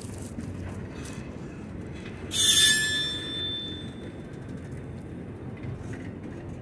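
Freight train rail noise: a steady low rumble, broken about two seconds in by a short, loud burst of hiss with a high squeal that fades within about a second.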